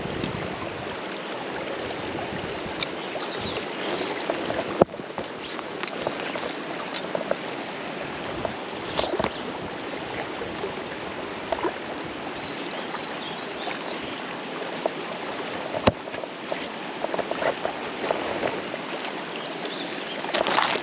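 Steady rush of flowing creek water, with a couple of sharp clicks.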